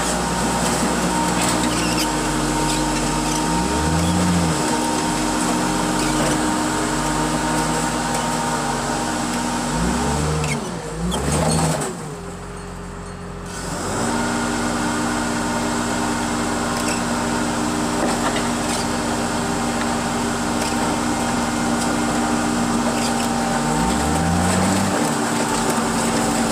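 Engine of heavy scrapyard machinery running steadily, its pitch dipping and recovering a few times as it takes load, and briefly quieter just past the middle.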